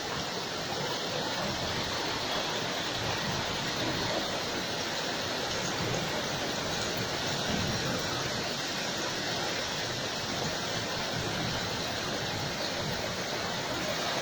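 Heavy rain falling steadily, an even rushing hiss with no thunderclap.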